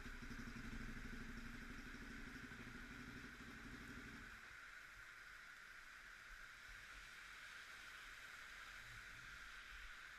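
Motorcycle engine idling with a low, even beat, cutting off about four seconds in; a steady hiss carries on after it.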